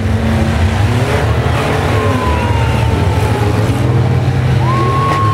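Race vans and trucks running on the track, a steady loud engine drone. Twice a thin high squeal rises above it: once slowly falling in pitch after about two seconds in, and once briefly held near the end.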